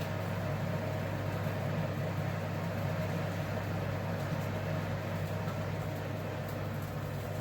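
Steady low hum of a running motor, unchanging throughout, with a fainter higher tone above it.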